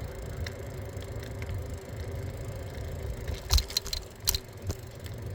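Riding noise from a bike on the move: a steady low rumble of wind and tyres, with a short burst of sharp rattles and clatters a little past halfway through, as from the bike jolting over a bump.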